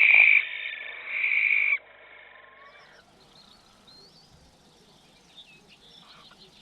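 Barn owl giving two harsh, hissing screeches, the first already under way at the start and the second about a second in, stopping before the two-second mark. Faint songbird chirping follows.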